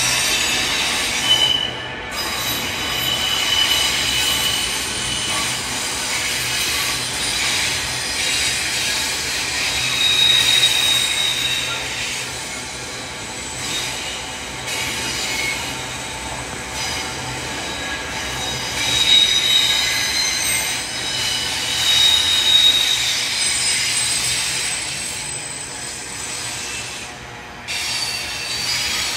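Container freight train's wagons rolling steadily past, with high-pitched wheel squeal that rises and fades several times along the train.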